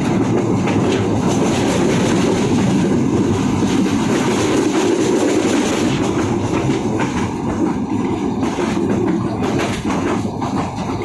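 Moving passenger train running on the track: a steady rumble with the wheels clicking over the rail joints.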